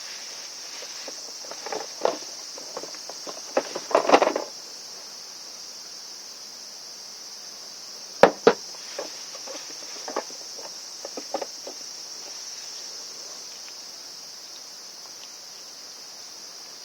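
Steady high-pitched insect chirring throughout, with scattered clicks and knocks of parts being handled: a cluster of knocks about two to four seconds in and a sharp double click about eight seconds in.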